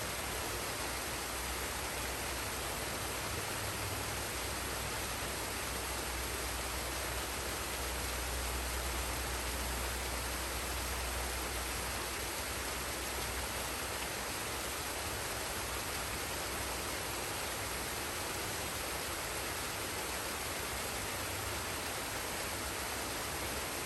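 Waterfall in a forest stream: a steady, even rush of falling water with a deep rumble underneath.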